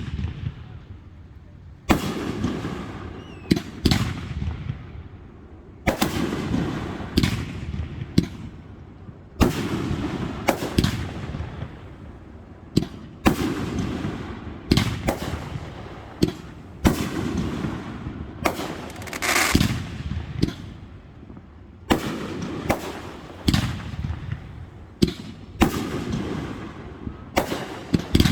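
Aerial fireworks display: shells bursting one after another, sharp bangs every second or so, each trailing off in a rolling echo and crackle.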